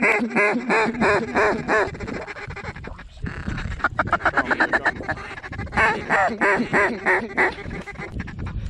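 Mallard duck calls blown in loud strings of quacks, about four a second, with a quick run of rapid chatter in the middle. This is hunters calling to mallards circling above the decoys to bring them in closer.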